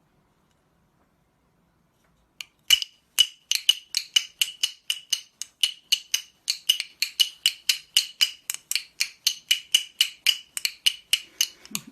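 Rapid, even tapping on a hard object that rings at one pitch, about four taps a second, starting a couple of seconds in and keeping up without a break.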